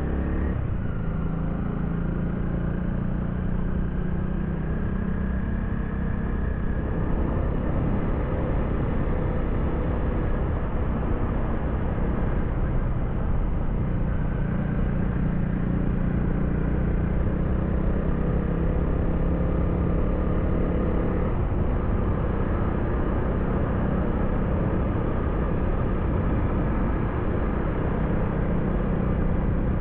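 Honda Rebel 250's single-cylinder engine running steadily under way, over a continuous rumble of wind and road noise, with a small change in engine note about two-thirds of the way through.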